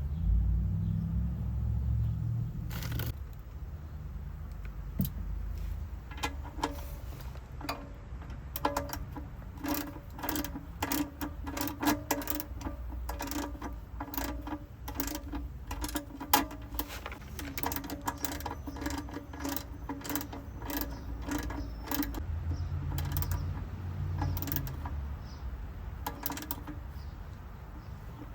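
Socket ratchet clicking in quick runs as the oil drain plug is threaded back into the oil pan and tightened. A low rumble comes near the start and again near the end.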